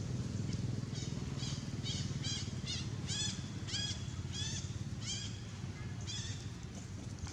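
Baby monkey crying: a rapid series of short high-pitched cries, each rising then falling, about two or three a second, over a steady low rumble.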